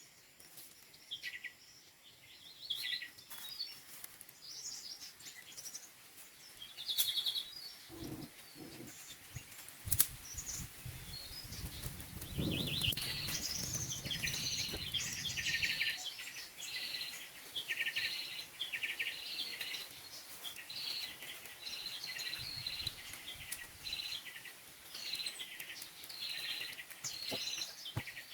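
Birds calling with many short repeated chirps, thickest in the second half. A sharp click comes about ten seconds in, with some low rustling noise around it.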